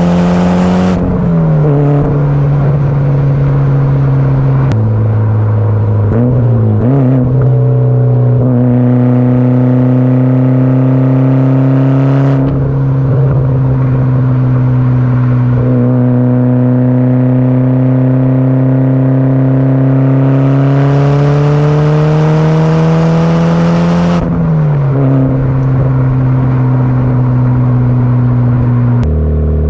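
Mitsubishi Lancer Evolution IX's turbocharged four-cylinder engine heard through a muffler-delete exhaust while driving: a steady drone whose pitch climbs slowly under acceleration and drops suddenly at gear changes, several times.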